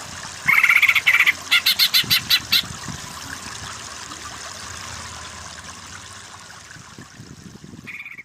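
Cucak ijo (green leafbird) singing over a steady background of running stream water: a fast trill about half a second in, then a quick series of sharp chirps, and one short call near the end.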